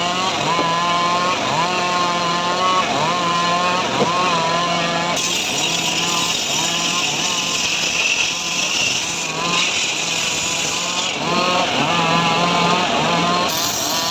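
Small engine of a homemade srekel sawmill running, its pitch rising and then holding in a cycle that repeats about once a second. From about five to eleven seconds, and again near the end, a loud hissing cutting noise rises over the engine as the saw goes through sengon wood.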